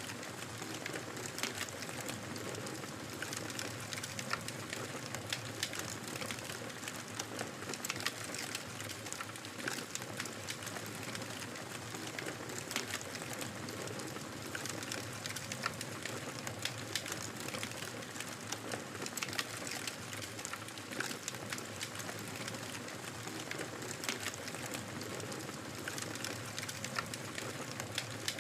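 Wood fire in a fireplace crackling steadily, with frequent irregular pops and snaps over a soft hiss.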